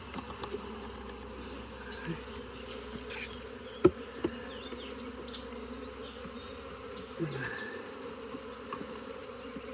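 Steady buzzing of a mass of honeybees from an open hive, with a single sharp knock a little under four seconds in.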